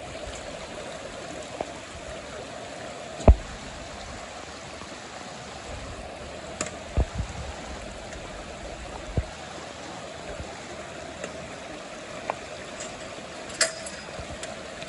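Steady rush of floodwater from a creek running over its banks, with a few dull thumps, the loudest about three seconds in.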